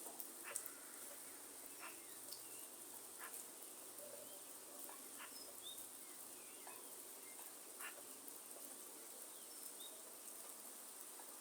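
Faint rainforest rain: a soft hiss with scattered single drops falling, short bird chirps here and there, and a steady high-pitched insect drone.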